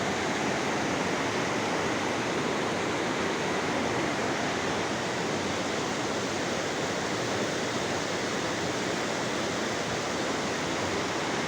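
Steady rush of fast-flowing river water tumbling through a rocky canyon, an even, unbroken wash of noise.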